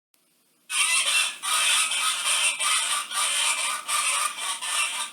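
A flock of waterfowl calling loudly and continuously in a choppy, overlapping chorus, starting sharply under a second in.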